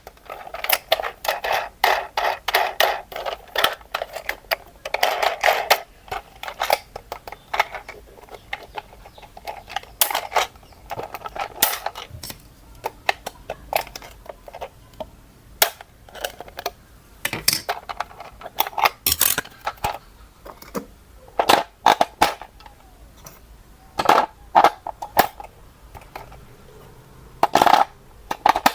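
Hard objects being handled: irregular clattering, clicking and scraping that comes in bunches, busiest over the first few seconds, with a few sharper knocks later on.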